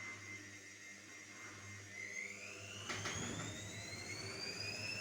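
Electrolux washing machine's motor whining with a low steady hum underneath. From about two seconds in the whine rises steadily in pitch as the drum speeds up, with a single click near the three-second mark.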